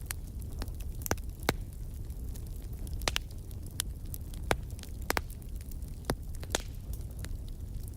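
Wood fire in a fireplace crackling: irregular sharp pops, roughly one a second, over a steady low rumble of the burning fire.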